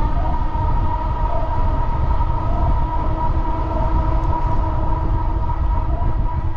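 Passenger train running: a heavy low rumble with a steady whine held at a constant pitch.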